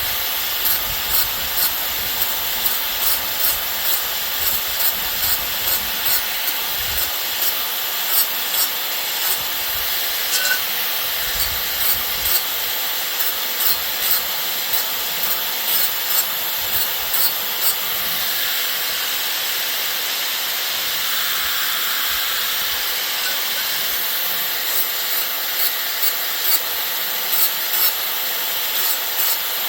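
A hand tool rubbing across wood in regular back-and-forth strokes, about two a second, over a steady hiss. The strokes stop for several seconds past the middle, then start again near the end.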